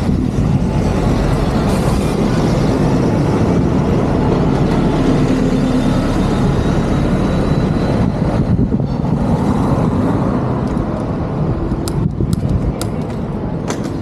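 Steady road traffic noise on a busy city street, with a low rumble, and a few sharp clicks near the end.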